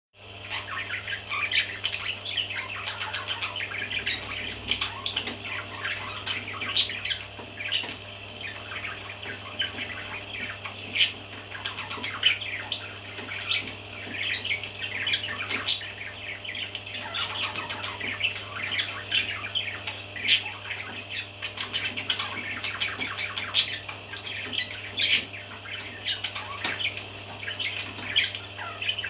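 Baby parrots squawking and chirping without pause, many short calls overlapping, with now and then a sharper, louder squawk. A steady low hum runs beneath.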